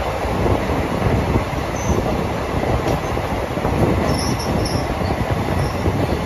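Passenger train coach running on the track, a steady rumble of wheels on rails, with a few brief high-pitched wheel squeals about two seconds in and again in the second half.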